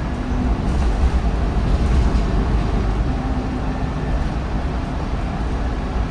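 MAN D1556LOH diesel engine of a MAN 19.360 bus with a ZF Ecolife six-speed automatic gearbox, running under way as a steady low rumble that swells slightly over the first couple of seconds and then eases.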